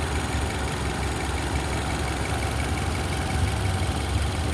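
2018 Nissan Rogue's 2.5-litre four-cylinder engine idling steadily, heard at the open engine bay; it is the original engine, with over 300,000 miles on it.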